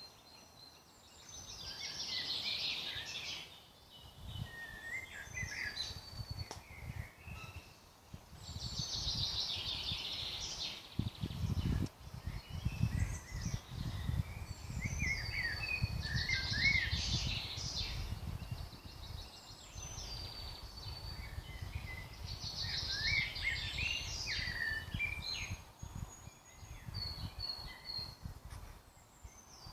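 Woodland birds singing in spring: one bird repeats a rapid trilling song phrase of two to three seconds four times, with other birds' chirps and whistles between the phrases. A low rumble runs underneath for most of it.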